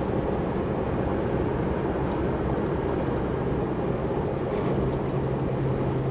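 Chevrolet S10 pickup driving through a curve, heard from inside the cab: steady road and engine noise, with a steady low hum coming in about two-thirds of the way through. The hum is the strange groan the truck starts making whenever it takes a curve.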